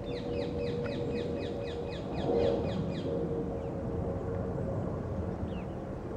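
A small bird calling in a rapid run of high, falling notes, about nine a second, for about three seconds, over a steady low hum. A short, louder low sound comes about two seconds in.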